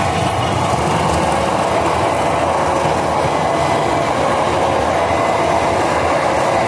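Indonesian diesel-hauled passenger train passing close by: a steady loud rumble of wheels and coaches running over the rails with a clatter. A level-crossing warning signal's alternating two-tone chime sounds faintly underneath.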